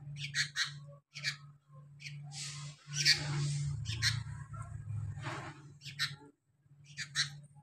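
Young sooty-headed bulbul (kutilang) calling: a string of short, scratchy calls with a longer drawn-out one about three seconds in.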